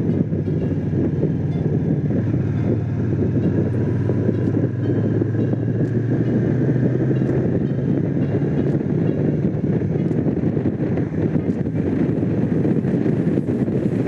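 Honda CX500's 90-degree V-twin engine running steadily while riding, with wind noise over the microphone.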